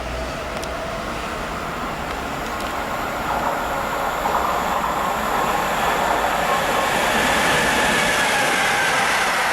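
A train running past close by on the track, a steady rush of wheel and rail noise with faint whining tones, growing louder through the first two thirds and then holding steady.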